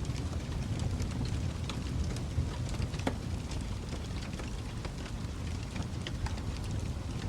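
Fire in a fireplace crackling: frequent small sharp pops and snaps over a low steady rumble of the flames, one louder snap about three seconds in.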